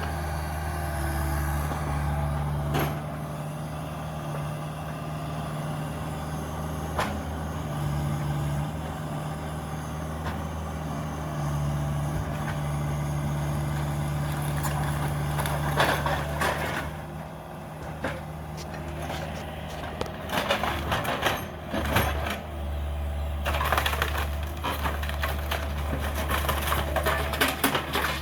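Cat 305 mini excavator's diesel engine running steadily while wood cracks and splinters as the house's timbers are broken up, in dense bursts about halfway through and again through the last third.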